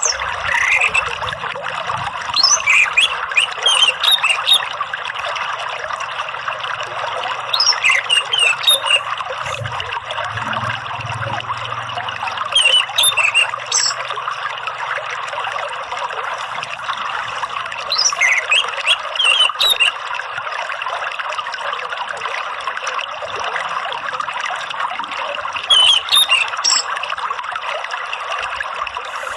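Water trickling steadily, with an orange-headed thrush singing short phrases of clear rising and falling whistles every few seconds, about six in all, each louder than the water.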